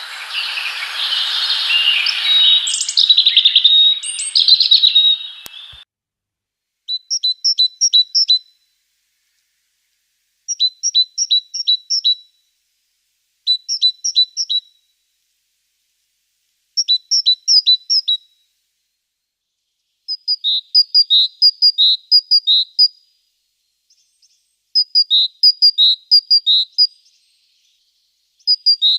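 Small birds chirping. A dense burst of overlapping chirps and chatter lasts about six seconds and cuts off with a click. Then short runs of quick, high chirps repeat every three seconds or so.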